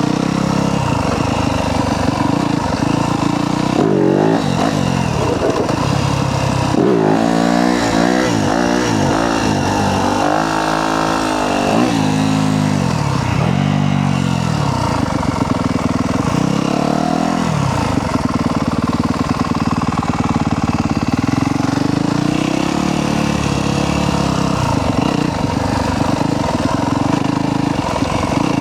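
Yamaha YZ250F dirt bike's single-cylinder four-stroke engine revving up and dropping back several times in a row, as in pulling wheelies, with steadier running before and after.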